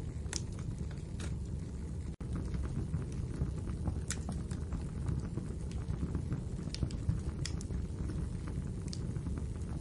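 Wood fire crackling in a fireplace: a steady low rumble of the burning fire with scattered sharp pops, about half a dozen of them. There is a split-second dropout about two seconds in.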